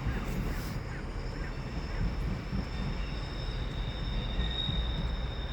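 Train moving through a station with a steady low rumble, and a thin high squeal from the wheels coming in about halfway through.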